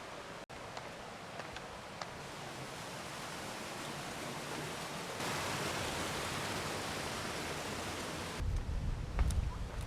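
Steady rushing noise outdoors, growing a little louder partway through. From about eight seconds in, a low rumble, like wind on the microphone, and a few light clicks join it.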